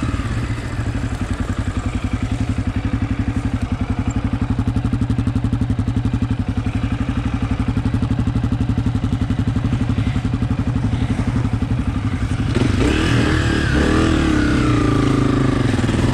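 Dirt bike engine running at low revs with a steady, even pulse; about twelve and a half seconds in it gets louder and revs up and down.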